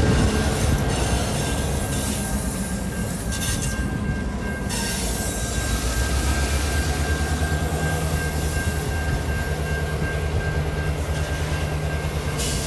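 Train running past, a diesel locomotive's low engine rumble under a thin, steady high-pitched wheel squeal.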